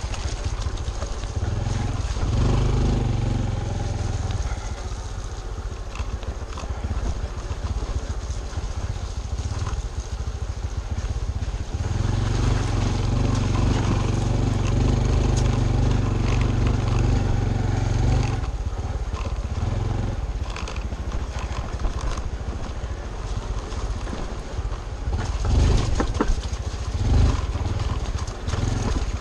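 Honda Trail 125's single-cylinder engine running under way, its note rising and falling with the throttle, louder twice for several seconds. Scattered knocks come through, the loudest a couple of seconds before the end.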